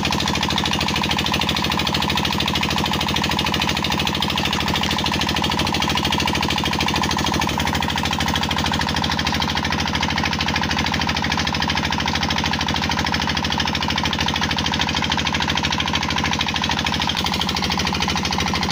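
25-horsepower single-cylinder 'Peter' diesel engine running steadily under load, driving a tubewell water pump, with a fast, even knock of its firing strokes.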